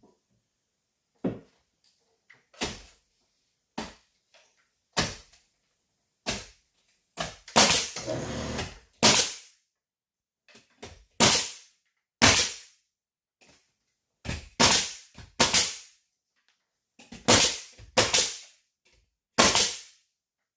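Nails being driven into timber ceiling furring battens, most likely with a pneumatic nail gun: a string of sharp single shots about a second apart, each with a short ring. About eight seconds in there is a denser rush of sound.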